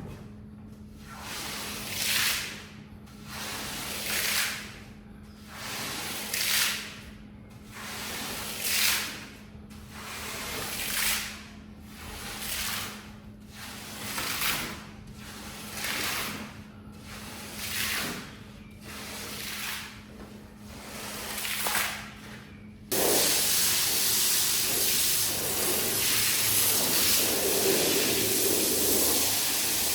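Rug being washed with water: swelling swooshes about every two seconds, then a steady louder hiss of spraying water that starts suddenly about 23 seconds in.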